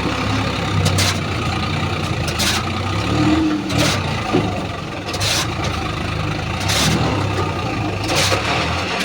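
Heavy diesel engine running steadily with a low hum, cut through by a short hiss about every second and a half.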